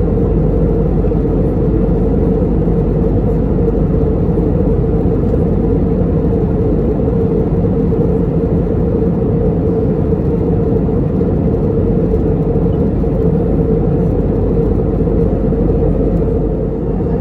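Steady cabin noise of an Airbus A320neo in cruise: a constant rumble of engines and airflow with a steady hum through it, unchanging throughout.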